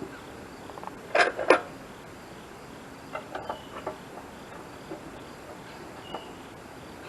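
Clanks and clicks of hand work on the sawmill's metal parts: two sharp knocks about a second in, then a few softer taps and ticks.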